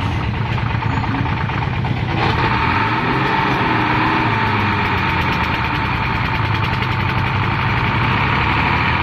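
Heavy diesel truck engine running under load, revving up about two seconds in and holding at high revs while the truck, bogged in mud, is being driven and pushed out.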